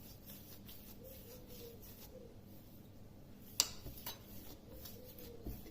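Faint soft sounds of hands kneading a ball of dough, with one sharp click about three and a half seconds in and a few lighter ticks after it.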